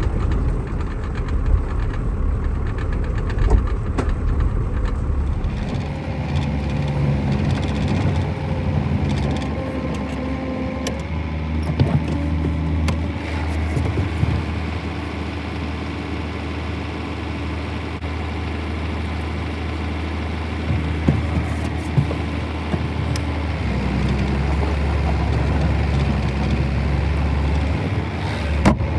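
Farm vehicle engine running steadily as it is driven across a paddock, its note shifting about six seconds in and again a few seconds before the end, with a few knocks and rattles.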